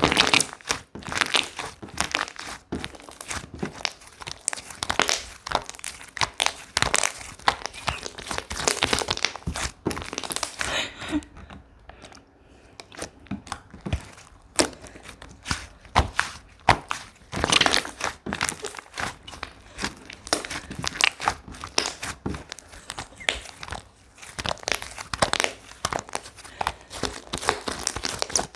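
Slime being squished, pressed and stretched by hand, giving a dense, irregular run of small clicks and crackles that eases off briefly about twelve seconds in.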